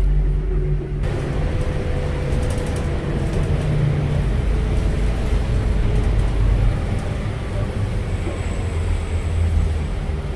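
City bus running, heard from inside the cabin: a steady low engine rumble with road and tyre hiss that rises suddenly about a second in.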